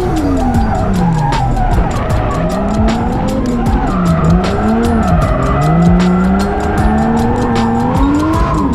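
Toyota JZX100 drift car's single-turbo 1JZ straight-six revving up and down repeatedly, with tyres squealing as the car drifts.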